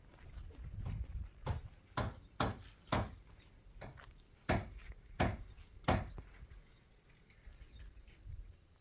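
A series of sharp knocks: about seven irregularly spaced strikes over a low rumble, bunched in the middle of the stretch and ending before the last couple of seconds.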